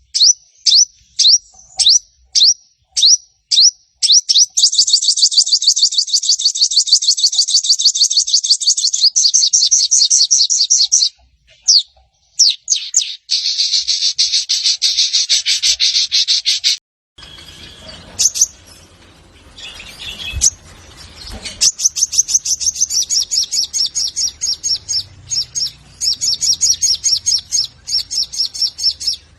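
Olive-backed sunbird (sogon) calling: a series of sharp downward chirps, about two a second, runs into long, rapid trilling chatter broken by short pauses. Partway through, the recording changes to one with a noisy background, and the fast trills carry on over it.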